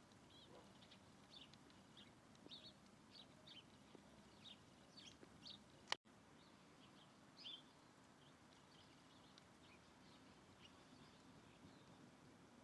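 Wild birds chirping: many short, high chirps, faint against a background hiss, with a sharp click about halfway through.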